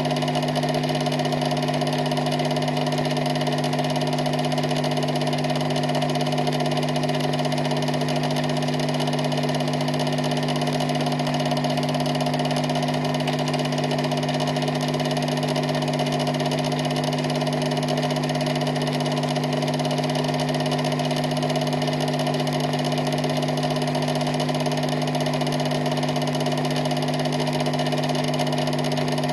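A steady, unchanging mechanical hum with several fixed tones and a hiss underneath, holding the same level throughout.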